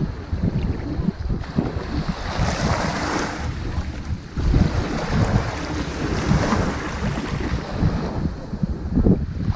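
Ocean waves washing up on a sandy beach, the surf swelling and falling back in waves a few seconds apart, with wind buffeting the microphone as a low rumble.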